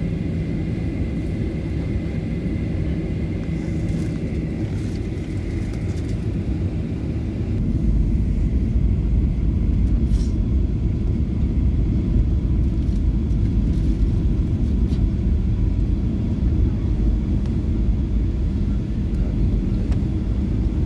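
Airplane's steady low engine rumble, with a steady hum and a high whine that fade out about seven seconds in; the rumble gets louder about eight seconds in and stays up.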